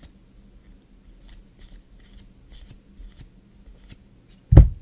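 Football trading cards being handled and flipped through, a run of faint soft ticks and slides, with one short, dull thump near the end.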